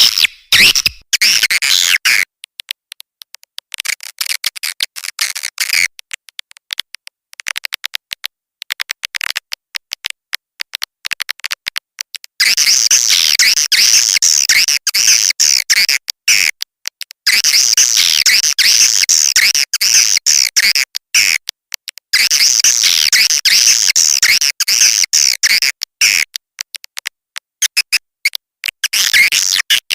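Swiftlet lure call: recorded swiftlet chirps and twitters played back loud and dense, in long bursts with short breaks. In the first part it thins to rapid dry clicks with only scattered chirps, and the dense chirping comes back about twelve seconds in.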